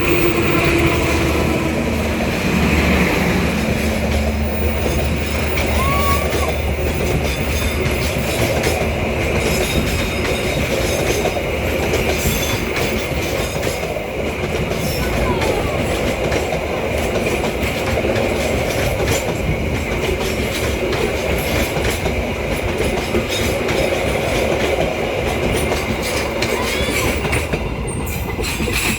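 Jayabaya intercity passenger train rolling past close by, its carriage wheels clicking steadily over rail joints, with a steady high wheel squeal over the rumble.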